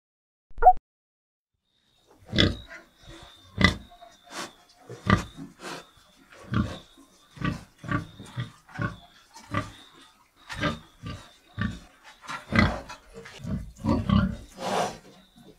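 An animal grunting over and over in short, irregular grunts, about one or two a second, starting about two seconds in, with one brief squeak just before.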